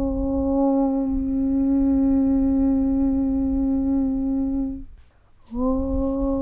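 A voice chanting a long, steady 'Aum' held on one pitch. It stops just under five seconds in, and after a short pause the next 'Aum' begins, sliding up slightly into its note.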